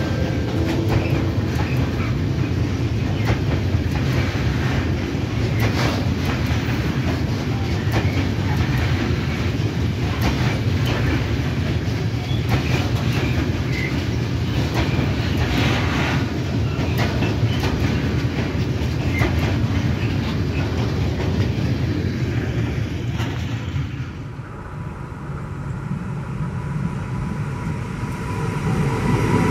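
Long freight train of Innofreight container wagons rolling past, a steady heavy rumble with wheels clacking over rail joints. About 24 seconds in, the sound cuts to the quieter rumble of an electric multiple unit approaching, which grows louder with a thin steady whine near the end.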